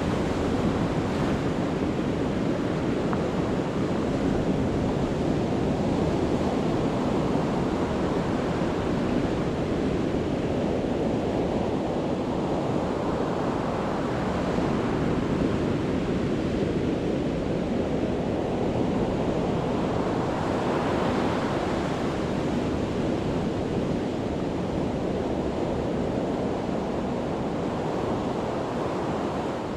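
Sea waves breaking on a beach: a continuous rush of surf, with one wave crash swelling up about halfway through and another about two-thirds of the way in.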